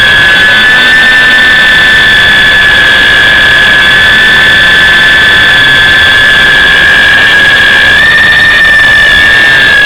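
Cinebee ducted FPV drone's electric motors and propellers whining in flight, a loud steady high-pitched whine that rises slightly in pitch about eight seconds in.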